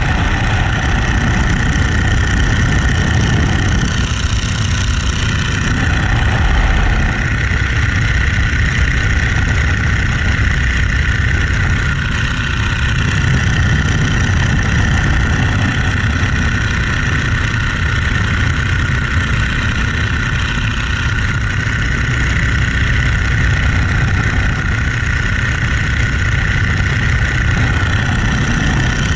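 Boeing-Stearman Model 75 biplane's radial engine and propeller running steadily, with a strong low rumble and no change in pitch.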